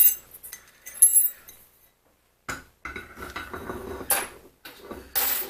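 Steel vise parts clinking and scraping as they are handled and fitted during reassembly of the vise. There are two sharp, ringing clinks in the first second or so, then a run of rattling and scraping with a louder clatter near the end.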